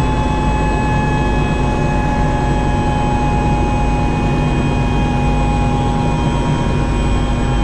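Helicopter turbine and rotor running steadily, heard from inside the cabin: a constant whine of several tones over a heavy rumble.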